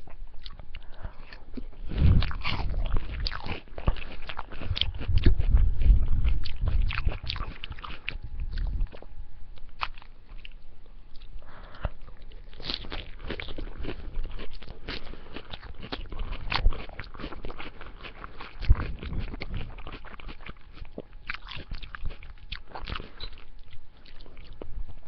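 Salad being bitten and chewed, with irregular wet crunches and crackles, heaviest during the first several seconds and then lighter chewing.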